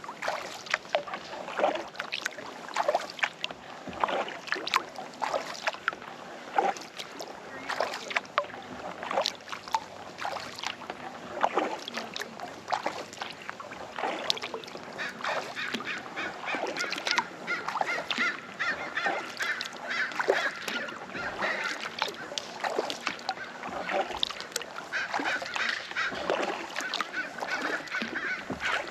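Waterfowl calling over and over, the calls growing denser about halfway through, over the splashes and drips of kayak paddle strokes in the water.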